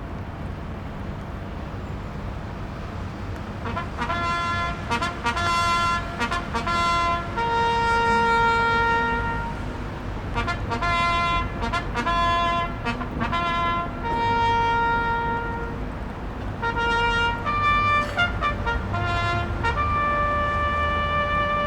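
A solo brass instrument plays a slow melody of long held notes, starting about three and a half seconds in, over a steady low rumble.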